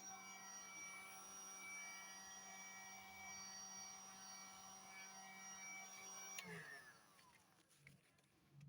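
Heat gun running with a steady motor hum and whine, then switched off with a click about six and a half seconds in, its fan winding down with a falling pitch.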